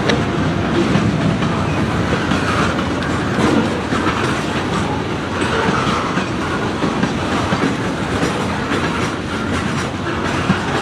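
Freight train rolling past: a steady rumble of cars on the rails, with wheels clacking over rail joints.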